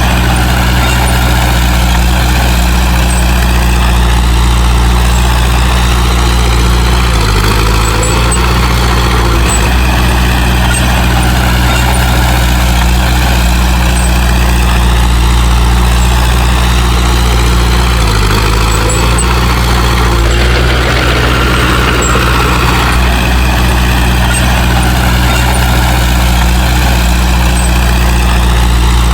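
Heavy earthmoving machine's diesel engine running steadily, its pitch dipping briefly twice, about seven and eighteen seconds in.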